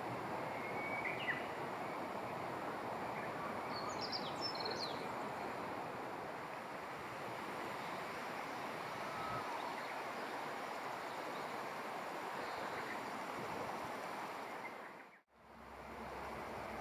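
Steady outdoor rushing noise, like running water or wind, with a few faint short bird chirps. It cuts out abruptly near the end.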